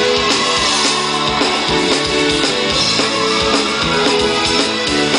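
Live band playing a rock song: guitar over a drum kit keeping a steady beat, with no singing in this passage.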